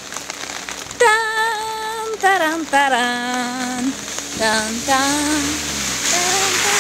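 Steady rain falling on wet pavement, a hiss that grows stronger near the end. From about a second in, a voice sings long, wavering held notes over it.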